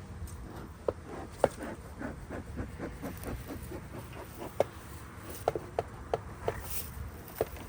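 Irregular light clicks and knocks, one or two a second, over a steady low rumble.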